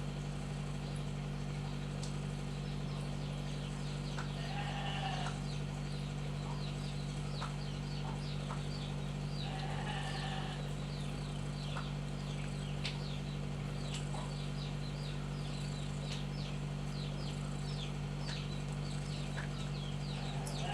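A kitten mewing in drawn-out calls, twice about five seconds apart, over a steady low hum and many quick, high, falling chirps.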